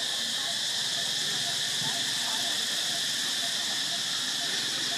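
A steady, high-pitched drone of insects, constant and unbroken.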